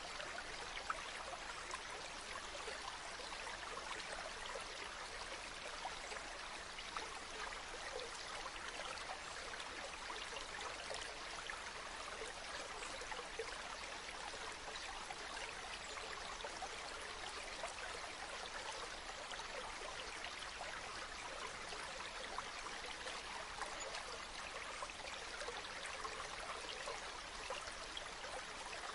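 Waterfall: steady falling and splashing water, an even rushing hiss with fine splashes throughout.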